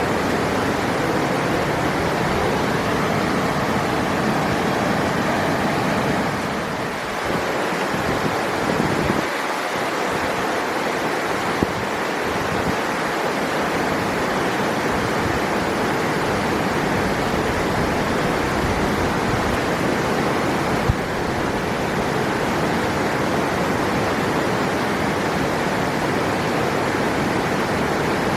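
River water rushing steadily over rocks, a dense, even rush with a brief slight dip about seven seconds in.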